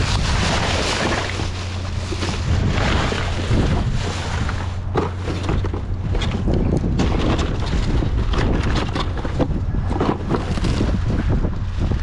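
Wind buffeting the microphone over a steady low hum, with many short knocks and rustles of items being handled.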